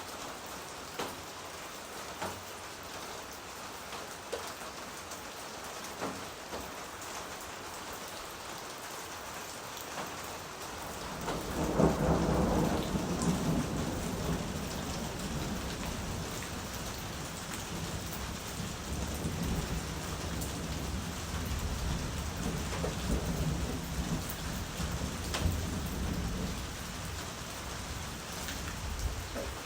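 Steady rain with scattered sharp drop hits. About a third of the way in, a long low rumble of thunder breaks in, loudest at its start, and rolls on for about fifteen seconds before fading.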